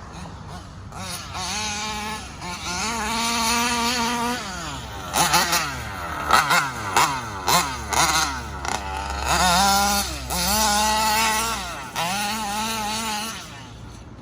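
ALX 85 gas engine in a Losi 5T RC truck, carburettor set rich, revved up and held high several times, with a run of quick throttle blips in the middle. It drops back to idle near the end.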